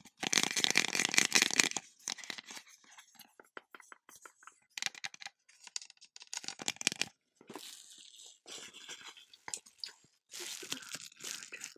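Crinkly, crackling rustling close to the microphone, dense for the first couple of seconds and then in short bursts with scattered clicks, as something crinkly is handled.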